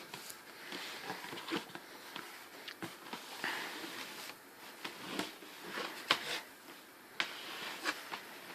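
Faint scattered clicks, taps and rustles: handling noise from someone moving things about in a small room.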